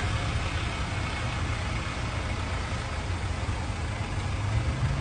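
Car engine idling: a steady low hum under a continuous wash of outdoor noise.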